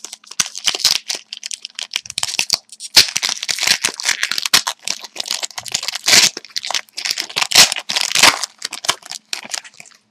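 Crinkling and tearing of a trading-card pack wrapper as it is ripped open and handled, an irregular crackle that goes on almost without a break.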